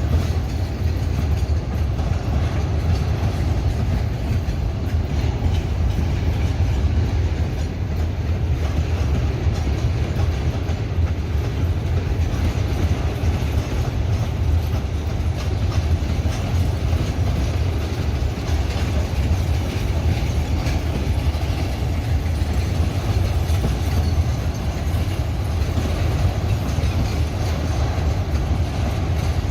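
Freight train passing, its wagons rolling over the rails in a steady, heavy low rumble.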